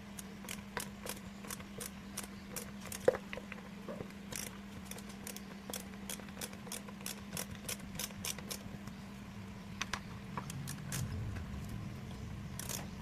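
Small screwdriver backing out the screws of a hard drive's case: a run of light metallic clicks, about two to three a second, with one sharper knock about three seconds in, over a steady low hum.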